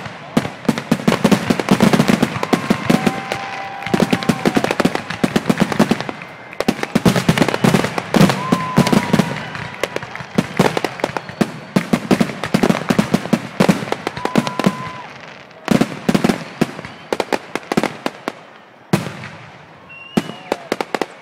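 Fireworks finale: a dense, rapid barrage of shell bursts and crackling bangs, with a few short whistles over it. The barrage thins out over the last several seconds to a handful of separate loud bangs.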